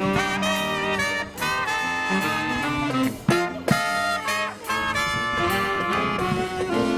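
Brass marching band playing an up-tempo Christmas number, with trumpets, trombones and saxophones in full harmony and two sharp hits about halfway through.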